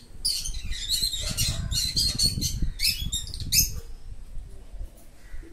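Small birds chirping in a quick run of short high calls, which stop a little before the end, with a low rumble underneath in the middle.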